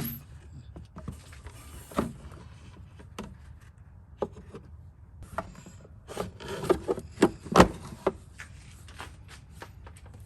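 Plastic clicks, knocks and rubbing as the cleaned air filter is set back into the engine's air filter housing and the cover is fitted. The clicks are scattered, with a quick cluster of sharper ones from about six to eight seconds in.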